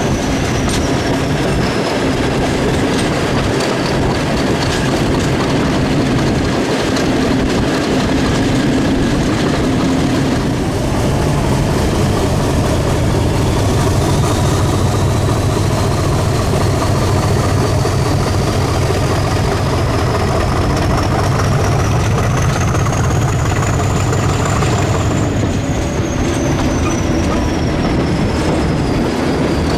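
Diesel locomotive-hauled train running, with a steady engine drone and wheels clacking over the rails. A high whine falls, climbs to a peak about 25 seconds in, then falls away again.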